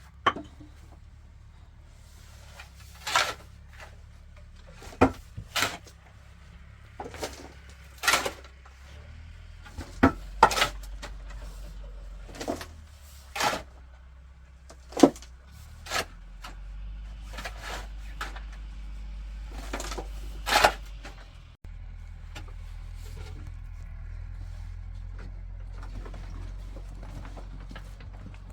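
Irregular sharp knocks and clatters, about fifteen, spaced a second or two apart, over a low steady hum that cuts out for a moment about two-thirds of the way through.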